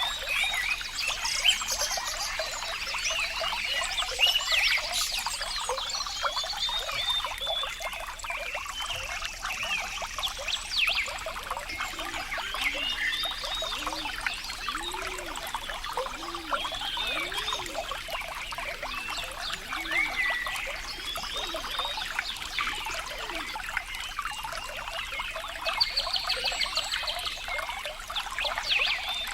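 Water trickling and babbling steadily, with many short chirping calls over it and a few low, bubbling notes partway through.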